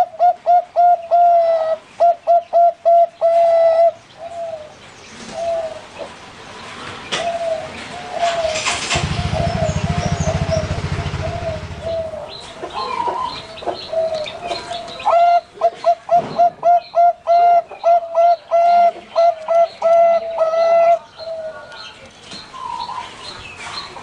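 Zebra dove (perkutut bangkok) cooing in fast runs of short, even notes, twice over, with slower scattered coos in between. Higher chirps are heard, and a low buzzing hum comes in for a few seconds in the middle.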